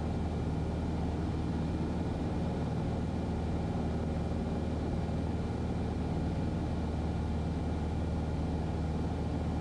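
Cessna 150's four-cylinder Continental O-200 engine and propeller droning steadily in flight, heard from inside the cockpit, with no change in power.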